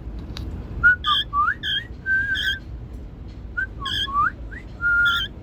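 Cockatiel whistling in two short runs of rising chirps, each run ending in a held steady note: the bird's happy, contented sounds rather than hissing.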